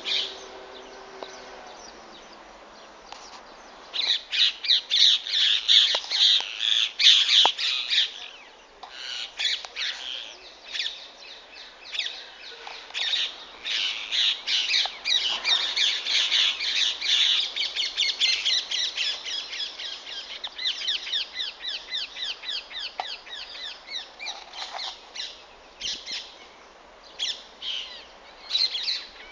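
A flock of green parrots calling, many short high-pitched calls in quick succession. Fairly quiet for the first few seconds, then loud and dense from about four seconds in, running on in rapid strings of calls.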